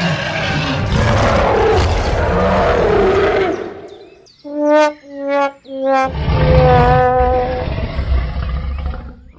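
A rough roar lasting about three and a half seconds, then three short horn-like toots and one longer toot over a low rumble.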